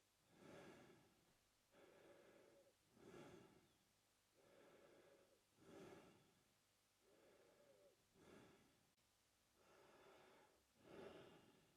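A man breathing slowly through his mouth, heard quietly. A shorter, louder breath alternates with a longer, softer one, one full in-and-out cycle about every two and a half seconds.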